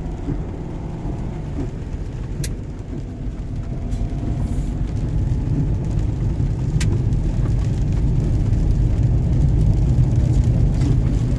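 Car interior while driving: a steady low engine and tyre rumble that grows louder through the second half, with two faint ticks.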